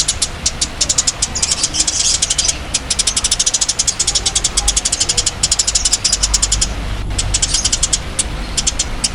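A songbird giving a fast, dry rattling chatter, roughly eight sharp high clicks a second in long runs, broken by short pauses about two and a half and seven seconds in. A low hum runs underneath.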